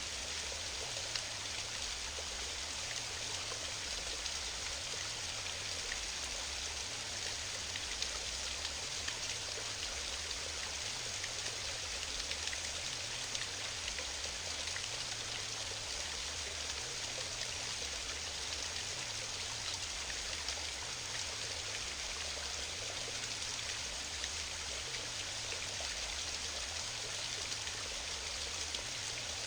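Waterfall: water rushing and splashing steadily without a break.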